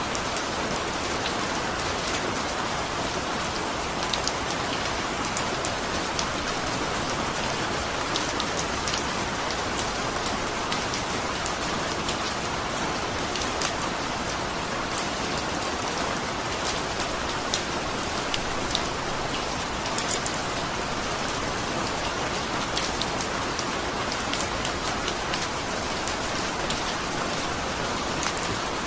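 Steady rain, with individual raindrops tapping sharply and irregularly over the constant patter.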